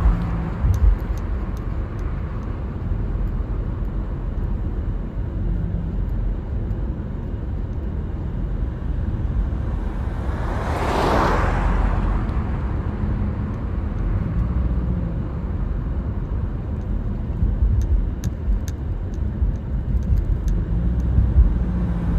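Road and engine noise of a car driving, a steady low rumble. About halfway through, another vehicle rushes past.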